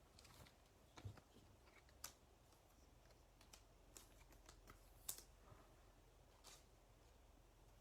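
Faint, scattered clicks and taps of trading cards being handled and set down, a few light ticks a second apart, the sharpest about a second, two seconds and five seconds in.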